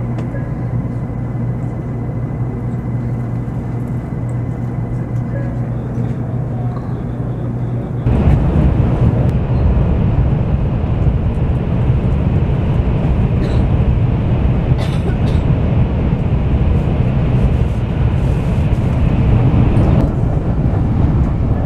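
Steady electrical hum and low drone of a Shinkansen train beside the platform, with a faint high whine. About eight seconds in it gives way to the louder, even rumble of running noise inside a Shinkansen passenger car, with a few faint clicks.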